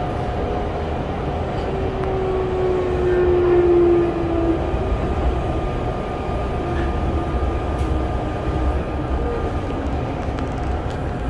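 Onboard running noise of a Kintetsu 7000 series train with Mitsubishi IGBT VVVF inverter control: a steady loud rumble of wheels and motors with inverter whines. About two seconds in, a brighter whine falls slightly in pitch for a couple of seconds as the train slows.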